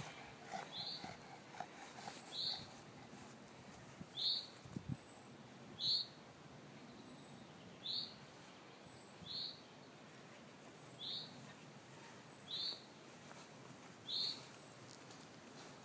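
A bird repeating one short, high call at an even pace, about every one and a half seconds, nine times, over faint outdoor background noise.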